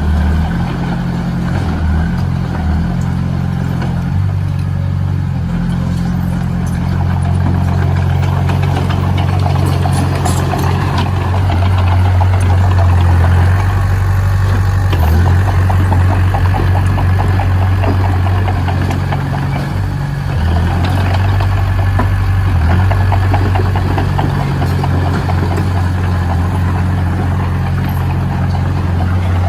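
Engine of heavy construction machinery running steadily, with a strong low rumble that shifts in pitch now and then.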